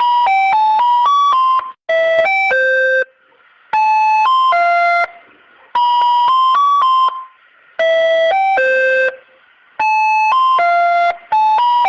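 Walls ice cream vendor's jingle: a short electronic chime melody of quick notes, played in phrases about every two seconds and repeating over and over.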